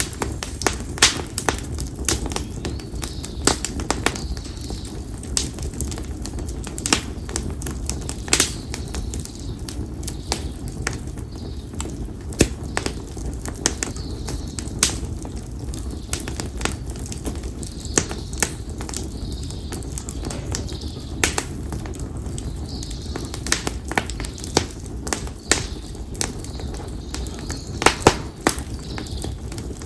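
Split konara oak firewood burning in an open fire, crackling with sharp, irregular pops over a steady low rustle of flame, with a couple of louder pops near the end.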